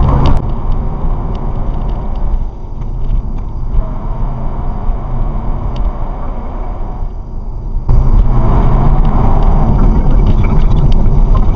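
Car driving on a highway, steady road and engine rumble as picked up by a dashcam. The noise drops sharply about half a second in and comes back loud suddenly about two-thirds of the way through.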